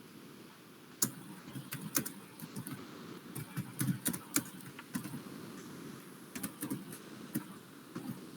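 Typing on a keyboard: irregular key clicks, starting about a second in.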